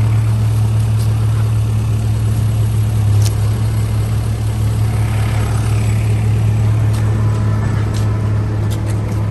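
A big truck's engine running steadily at a constant speed, a low, even hum, with a few faint clicks near the end.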